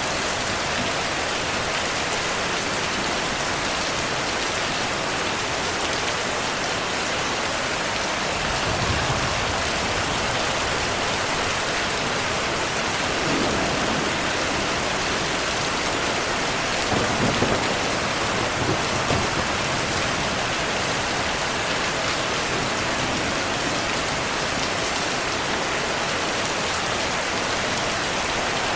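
Steady heavy rainfall, with low rolls of thunder rumbling in and fading a few times, the strongest a little past the middle.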